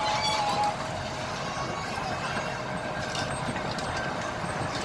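Miniature park train running along its track, heard from aboard: a steady rumble and clatter of wheels and running gear, with a faint thin squeal held through it.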